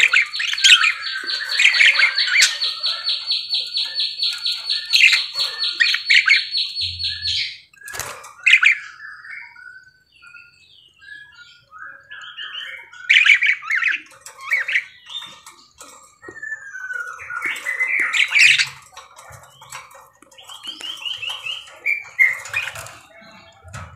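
Budgerigar chattering and squawking: a fast run of high repeated notes for the first seven seconds or so, then broken chirps and warbling. A single sharp knock comes about eight seconds in.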